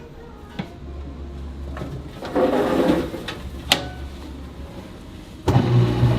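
Kitchen handling noises: a few sharp knocks and clatters with a brief scraping rush in the middle, over a low hum. About five and a half seconds in, a machine starts with a steady, pitched hum.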